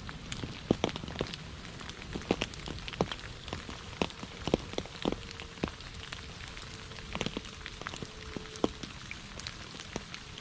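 Heavy rain falling with a steady hiss, punctuated by many sharp, irregular drops striking close by.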